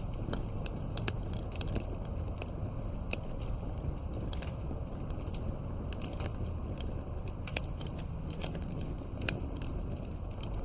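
Wood campfire crackling: many sharp, irregular pops and snaps over a steady low rumble of the flames.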